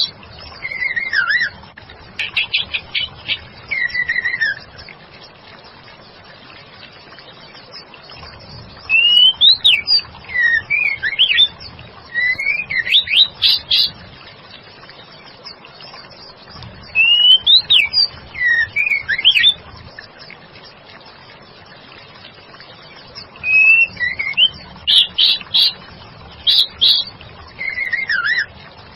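Female white-rumped shama singing in four bursts of sliding whistled notes and quick repeated chips, with pauses of a few seconds between phrases.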